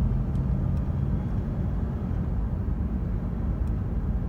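2015 Lexus RC 350 F Sport's 3.5-litre V6 and tyres heard from inside the cabin while driving: a steady low engine and road rumble with a few faint clicks.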